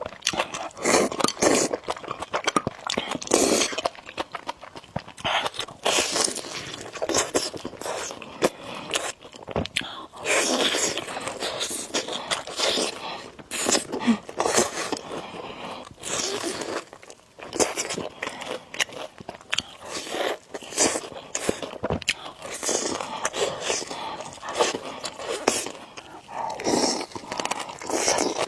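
Close-miked eating of noodles: chewing and slurping in quick, irregular strokes.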